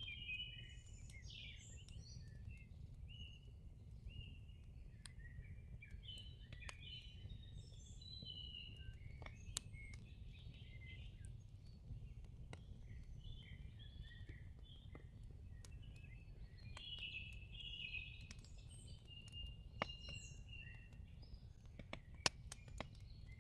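Faint birdsong, several birds chirping and warbling, over a low steady rumble, with a few sharp clicks scattered through it.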